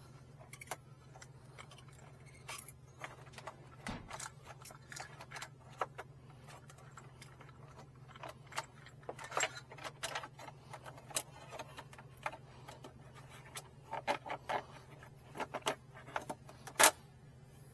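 Scattered, irregular clicks, taps and light rattles of small objects being handled, over a steady low hum. The loudest click comes near the end.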